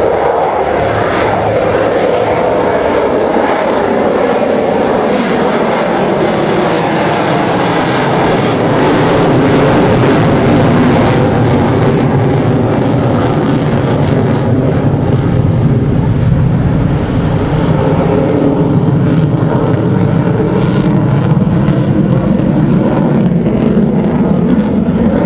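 Lockheed Martin F-35C Lightning II's Pratt & Whitney F135 turbofan roaring loudly as the jet makes a low, slow high-angle-of-attack pass, its pitch sliding down as it goes by. The high hiss thins out about halfway through, leaving a deep rumble.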